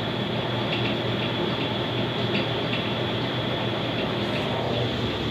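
Enxuta Master washing machine in its final spin cycle: a steady motor hum with a thin high whine and light, irregular ticks.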